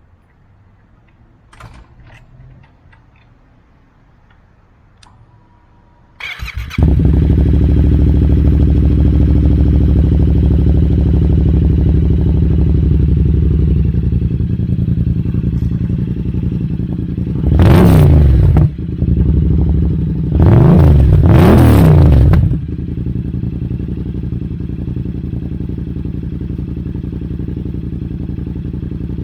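Yamaha FZ-07 parallel-twin with its M4 exhaust baffle removed, starting up about six seconds in after a few faint clicks, then idling fast. It is revved once and then in a double blip a few seconds later before settling back to a steady idle, its first run on fresh oil after the oil change.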